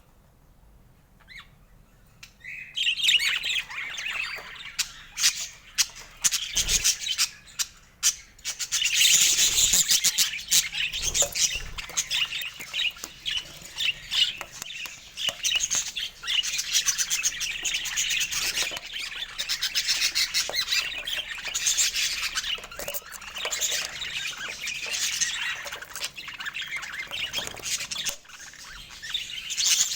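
Budgerigars chattering and warbling in a dense, rapid, scratchy stream of calls, beginning after a brief lull about two to three seconds in.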